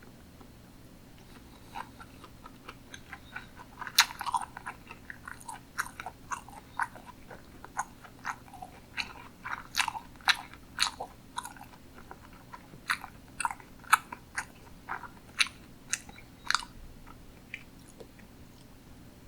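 Close-miked chewing of sushi: a quick run of wet mouth clicks and smacks. It starts about two seconds in and dies away a couple of seconds before the end.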